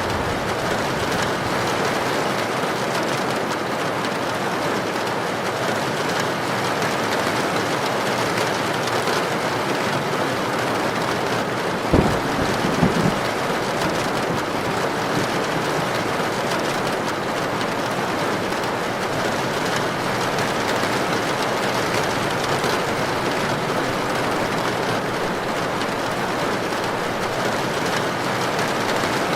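Heavy rain falling steadily in an even hiss. A little before halfway a single sharp crack cuts through, followed by a brief low rumble.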